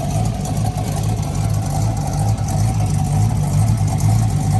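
Corvette LS V8 swapped into a classic BMW 3 Series, idling steadily with a deep, even exhaust note.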